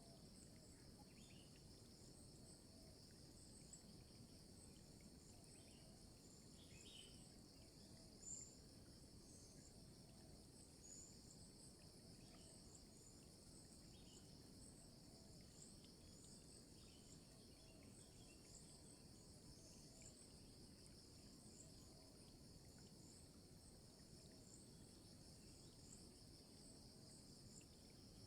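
Faint steady insect chorus of crickets or cicadas, a continuous high hum with scattered short, high chirps over a low background rumble. There is a single brief soft bump about eight seconds in.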